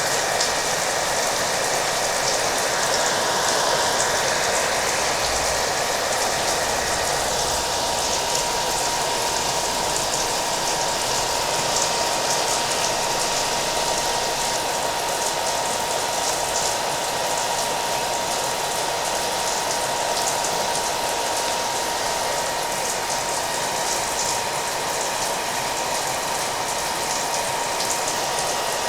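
Hair dryer running steadily with a thin, even whine, mixed with steady rain.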